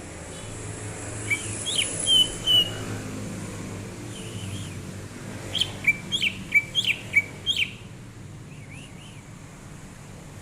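Cucak ijo (green leafbird) singing: a few short whistled notes about a second in, then a quick run of about eight sharp, clear notes a little past the middle. A steady low background rumble runs underneath.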